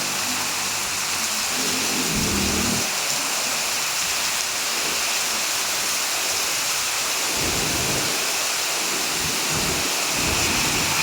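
Heavy rain falling in a steady hiss, with a few brief low rumbles underneath.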